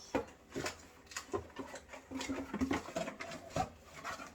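Unboxing handling: a vacuum's charging unit being taken out of its packaging, with several short clicks and knocks of plastic and cardboard.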